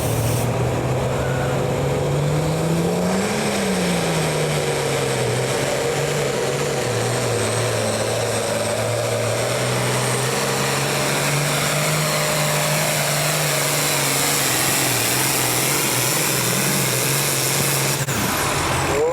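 A pulling vehicle's engine running hard under load. Its pitch rises briefly about three seconds in, drops back and then holds steady.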